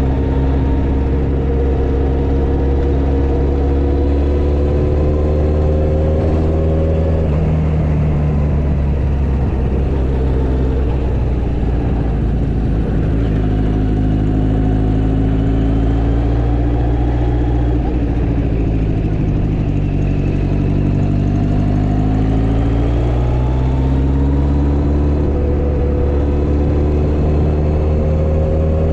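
Motorcycle engine running under way. Its note climbs, drops suddenly about a quarter of the way in, sinks slowly through the middle and climbs again near the end, as the bike shifts gear and slows and speeds up.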